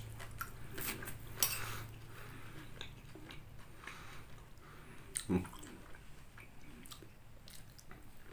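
Close-up mouth sounds of a person chewing a mouthful of chicken noodles and sawi greens, with a few sharp clicks in the first couple of seconds. About five seconds in, a short low sound falls in pitch.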